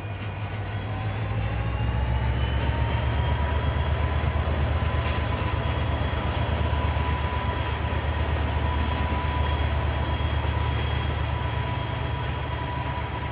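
A KiwiRail diesel train passing close by, its locomotive engine a loud, steady low drone. A whine rises over the first few seconds and then holds at one pitch. The sound builds over the first couple of seconds and eases near the end.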